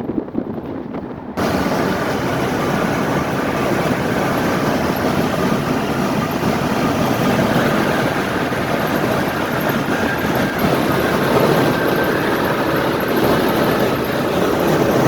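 Running noise of a 1970 VW Beetle at expressway speed: the air-cooled flat-four engine under a steady rush of wind and road noise, heard from inside the car. Just over a second in, the rush jumps abruptly louder and brighter, then holds steady and grows slightly louder toward the end.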